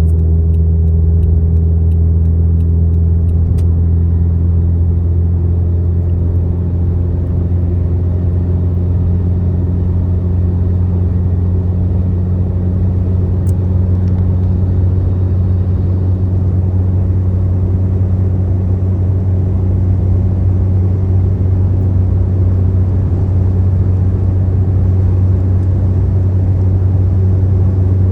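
Car travelling at highway speed: a steady low drone of engine and road noise, with a faint hum of pitched tones that drift slowly.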